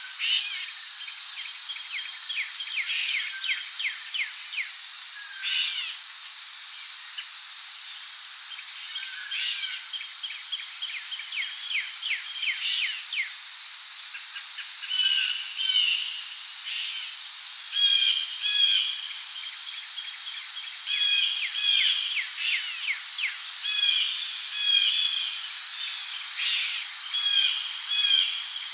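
Tropical rainforest ambience: crickets keep up a steady high drone while birds call over it. The calls are quick falling chirps and short repeated notes, coming every second or two.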